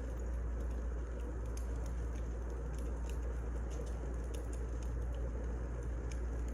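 Wood fire burning, with a steady low rumble and frequent irregular small crackles and pops.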